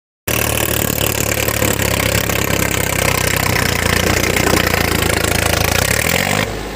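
Tractor engine running loud and steady, cutting in suddenly after a moment of silence. Near the end a short rising tone is heard and the sound drops a little.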